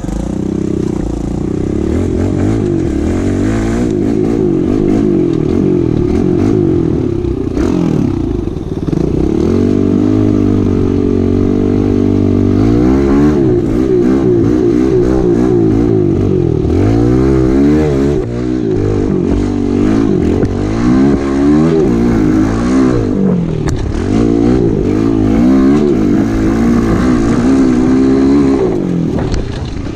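Pit bike engine revving up and down while being ridden, its pitch rising and falling every second or two as the throttle is worked.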